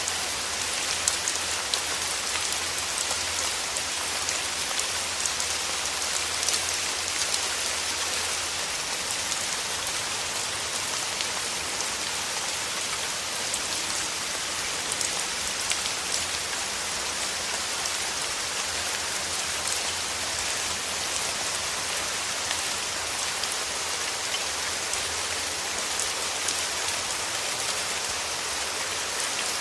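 Steady rain falling, a dense even hiss of raindrops pattering on a surface, with frequent small drop ticks.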